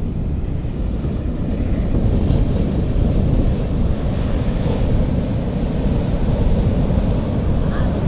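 Sea waves washing onto a beach in a steady wash, with wind buffeting the microphone in a low rumble.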